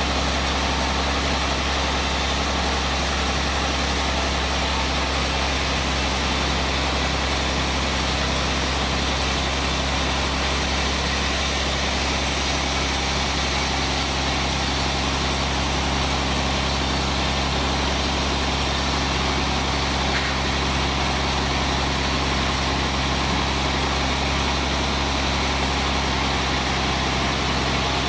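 Sawmill band saw running steadily: a constant low machine hum with an even hiss above it, unchanging throughout.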